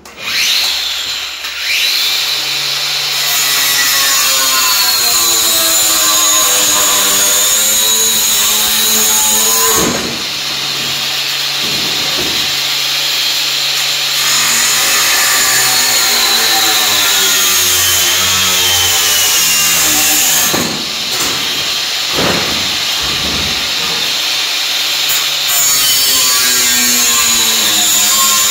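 A power tool cutting sheet metal, running loudly and continuously with a whine that drifts in pitch under load. It eases off briefly about 10 s and 21 s in.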